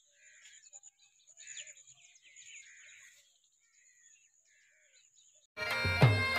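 Faint bird calls over a steady, thin, high-pitched tone. About five and a half seconds in, loud instrumental music cuts in suddenly: a reedy melody of held notes over a regular drum beat.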